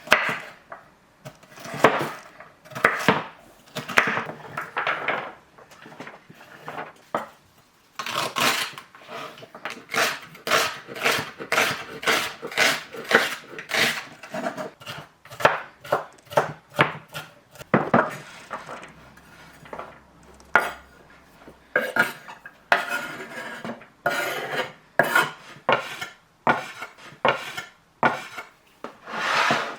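Kitchen clatter: pots, dishes and metal utensils clinking and knocking, with runs of quick repeated knocks of several a second.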